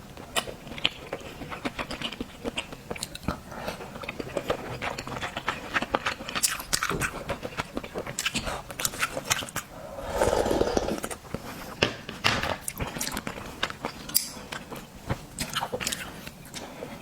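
Close-miked eating of oysters: chewing with a dense run of sharp wet clicks and smacks, and a longer, fuller sound about ten seconds in.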